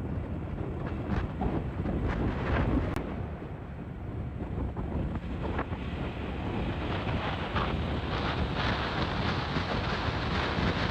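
Wind rushing over the microphone of a moving KTM Duke 200 motorcycle, with its engine running underneath. The rush grows brighter and a little louder from about six seconds in.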